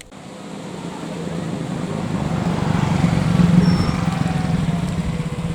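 Diesel train approaching, its engine hum growing louder over the first few seconds and then holding steady.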